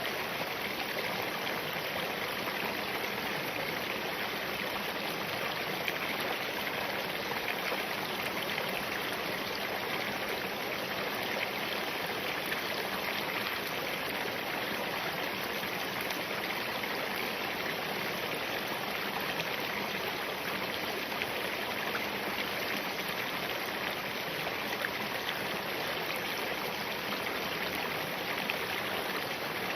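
Spring water of a small mountain stream running over and between rocks: a steady, even rushing and burbling.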